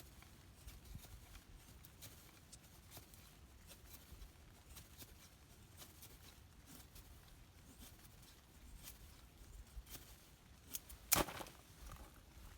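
Faint, scattered clicks and scrapes of a knife working wet wood, with one sharp crack about eleven seconds in.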